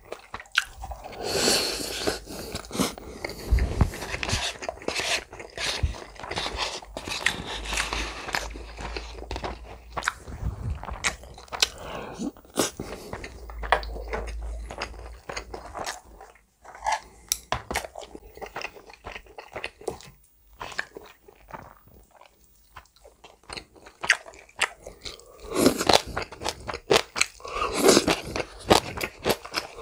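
Close-up chewing and biting of a mouthful of chicken mayo rice, with wet mouth clicks and crunches. Near the end it grows louder as a stalk of green onion kimchi is drawn into the mouth and bitten.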